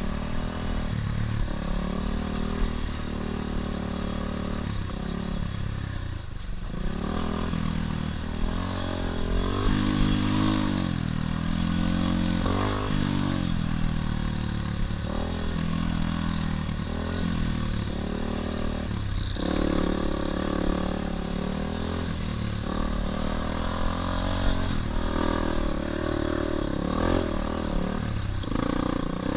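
Dirt bike engine running while riding, its pitch rising and falling again and again as the throttle is opened and eased off.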